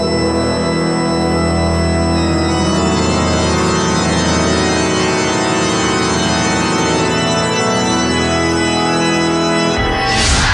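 Sustained organ chords held and shifting slowly, a horror-style sound effect. Near the end a sudden loud noisy hit cuts in over them.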